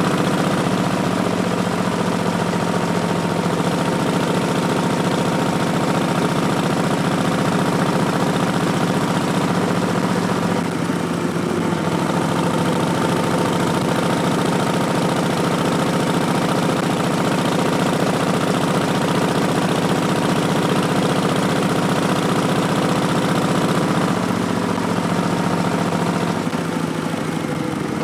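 Harley-Davidson Street Bob's V-twin running under way through Vance & Hines Twin Slash slip-on mufflers, a steady loud pulsing exhaust note. The engine note shifts briefly near the middle and again near the end, as the throttle or gear changes.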